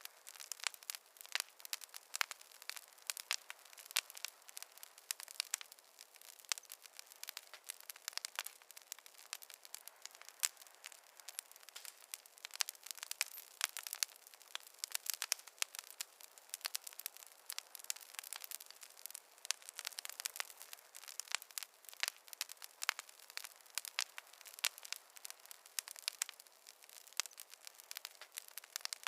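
Fireplace fire crackling steadily: many small, irregular pops and snaps a second, with no low rumble beneath.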